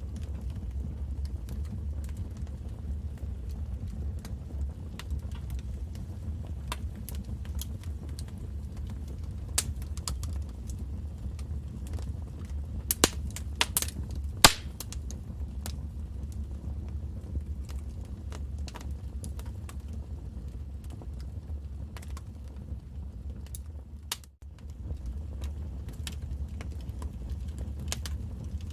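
Wood fire burning in a fireplace: a steady low rumble of the flames with scattered crackles, and a few louder, sharper pops about halfway through. The sound briefly drops out about two-thirds of the way through.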